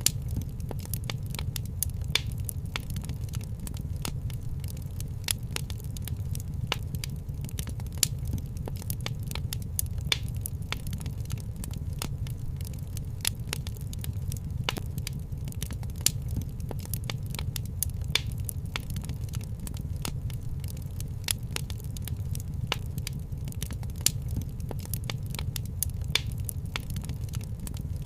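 Wood fire crackling in a fireplace: a steady low rumble of burning with frequent irregular pops and snaps.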